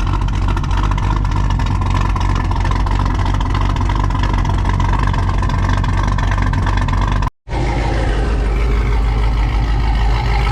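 Car engines idling steadily, with a deep low-pitched hum. The sound drops out for a split second about seven seconds in, then carries on.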